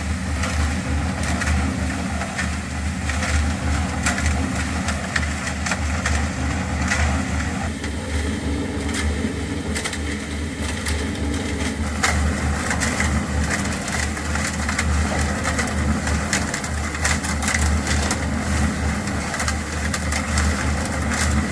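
An engine running steadily with a low pulsing rumble, over scattered clicks and knocks.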